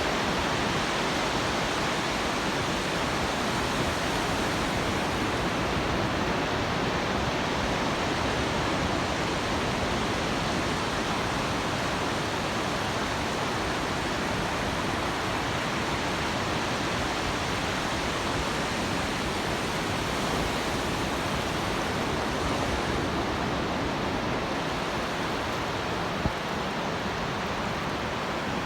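Pacific Ocean surf breaking on the beach, a steady, unbroken roar.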